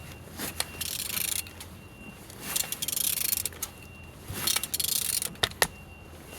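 Mercedes-Benz M271 four-cylinder engine being turned over by hand with a wrench: three rasping whooshes, each about a second long, with sharp metal clicks between them. The engine turns over freely.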